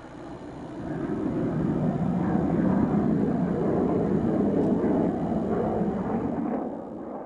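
Jet fighter passing, its engine noise swelling about a second in, staying loud for several seconds, then fading near the end.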